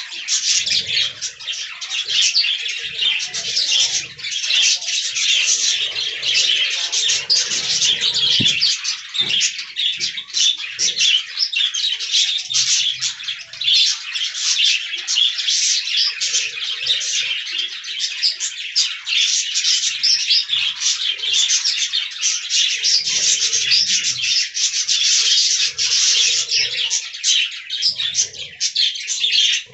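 A colony of budgerigars chattering continuously, many short chirps overlapping without pause.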